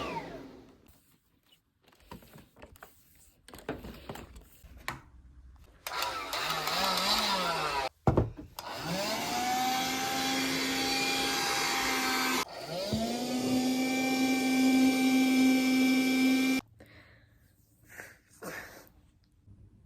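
Vacuum cleaner switched on twice, each time the motor spinning up to a steady whine over a loud rush of air; the first run stops after about four seconds and the second cuts off suddenly after about four more. Clicks and rustling of handling come before it.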